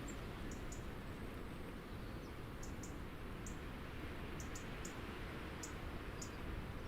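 Small birds giving short, high chip calls, often two in quick succession, repeated every second or so, over a steady low background rumble.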